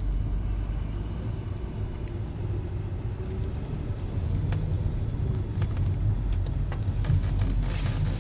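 Mitsubishi Outlander III pulling away slowly in 4WD Lock, heard from inside the cabin: a steady low rumble of engine and drivetrain, with a few light clicks in the middle. Near the end, road or tyre hiss rises.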